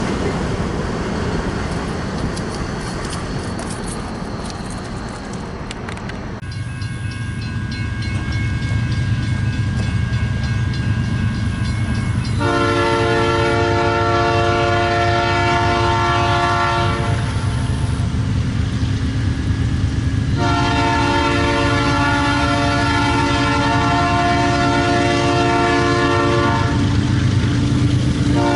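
Diesel locomotive approaching, its engine rumbling steadily, and sounding its air horn in two long blasts: one about twelve seconds in lasting some five seconds, the other starting about twenty seconds in and still going at the end. A rushing noise comes before the engine is heard.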